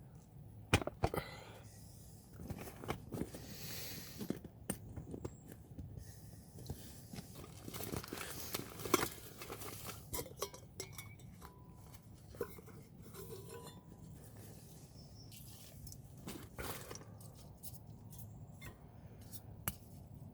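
Irregular clicks, clinks and rustling of small objects being handled, with sharp knocks about a second in and again about nine seconds in.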